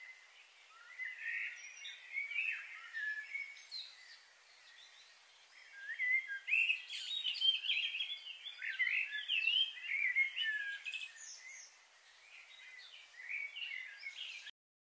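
Small birds chirping and calling in quick clusters of short, gliding notes over a steady background hiss; the sound cuts off abruptly near the end.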